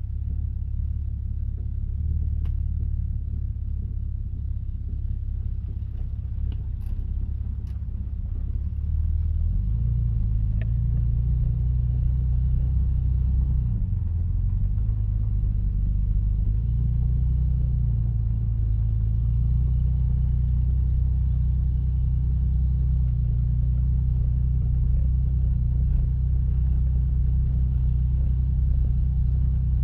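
1963 Chevrolet Corvair's air-cooled flat-six engine running as the car is driven: a low rumble that rises in pitch and gets louder about nine seconds in, dips briefly near fourteen seconds, then holds steady.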